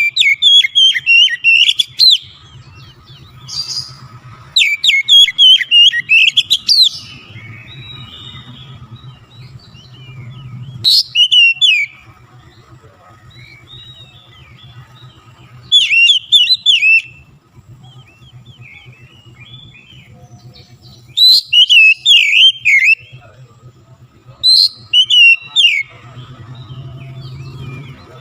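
Oriental magpie-robin (kacer) singing in loud bursts of rapid whistled and chattering notes, about seven phrases of one to two seconds each, separated by short pauses. A faint low hum runs underneath.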